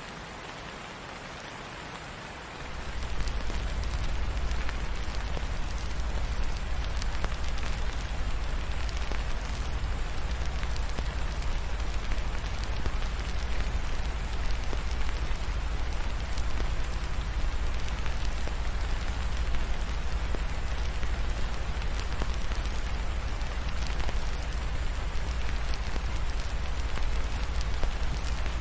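Steady rain falling, an even hiss of drops over a deep low rumble. For the first two and a half seconds the low rumble is absent and the sound is quieter, then it comes back and stays level.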